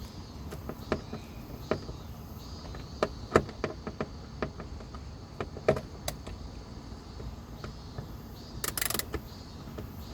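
Hand tools at work on a car engine bay: scattered sharp metal clicks and knocks, then a short burst of rapid clicking near the end.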